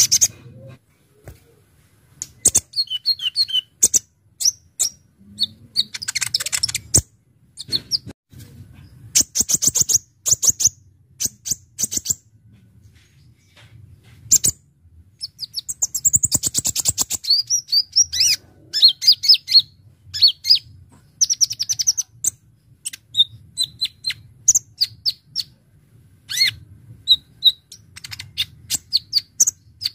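Brown-throated sunbird (kolibri ninja) singing in a rapid, busy sequence: sharp, high chirps and fast rattling trills in bursts, broken by short pauses.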